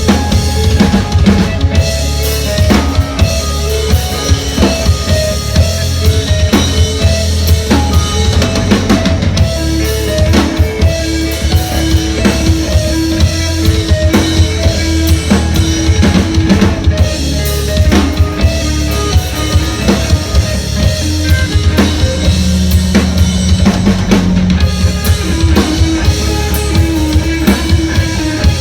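Live band music: a drum kit with bass drum and snare keeping a steady driving beat, under sustained pitched synth or guitar notes and a heavy bass line.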